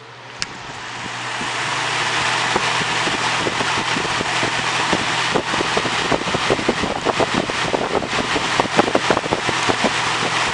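Lasko 3723 box fan, fitted with a replacement motor, switched to high: a click, then the fan's air rush rises over about two seconds and holds steady over a low motor hum. Irregular rattling ticks come through the steady rush, thicker in the second half.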